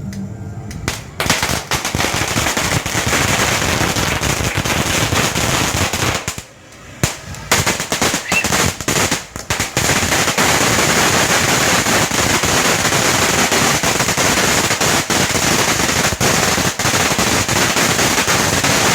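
Fireworks going off in a rapid, dense barrage of crackling reports. It starts about a second in, drops away briefly about a third of the way through, then resumes as a continuous volley.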